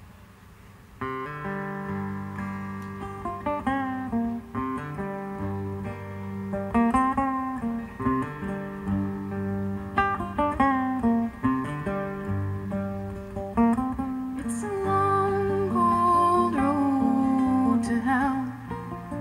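Live acoustic band playing a song's instrumental intro: a strummed acoustic guitar comes in about a second in and keeps a steady rhythm of chords, with a higher melody line joining near the end.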